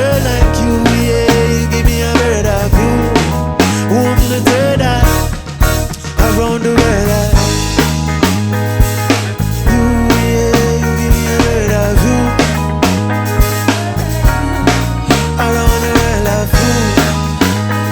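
Live reggae band playing an instrumental passage: bass guitar and drum kit keep a steady groove while a melodic lead line with bending notes plays over keyboards.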